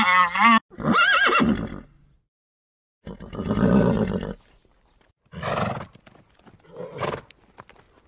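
Animal calls: a wavering pitched call about a second in, then after a short break a harsher, longer call followed by two shorter calls, with a few sharp clicks near the end.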